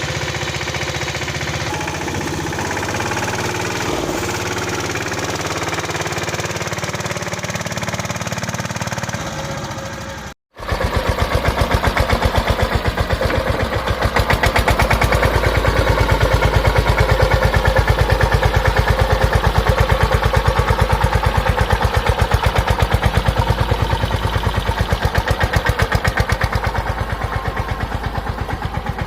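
Tractor diesel engine running with a steady chugging beat. The sound drops out briefly about ten seconds in, then comes back as a louder, pulsing chug that eases off near the end.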